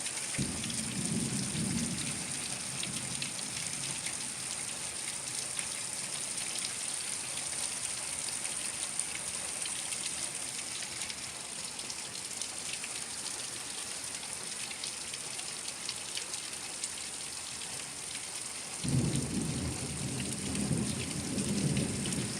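Steady rain falling during a thunderstorm, with thunder rumbling twice: briefly near the start, then again through the last few seconds.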